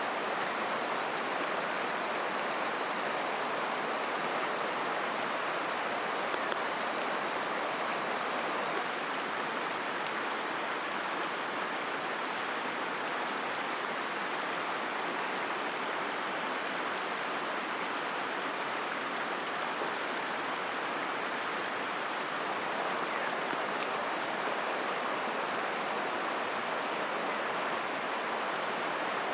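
Steady rush of a flowing river, even and unbroken, with a few faint high ticks.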